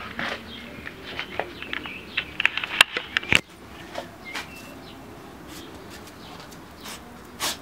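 Birds chirping in the background, with scuffs and short clicks throughout. Two sharp knocks come about three seconds in, and a brief rustle near the end.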